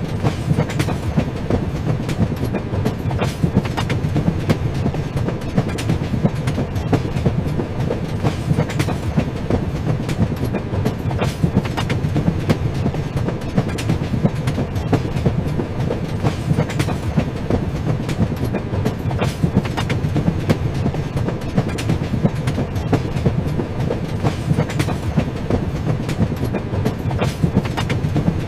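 Train running steadily along the track: a continuous low rumble of the wheels on the rails, with frequent sharp clicks and clacks of the wheels over the track.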